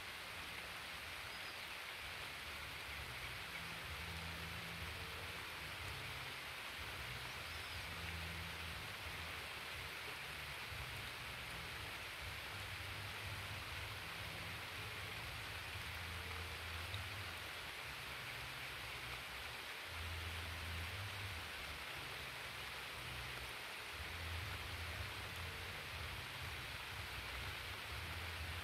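Steady hiss of light rain falling, with irregular low rumbles underneath.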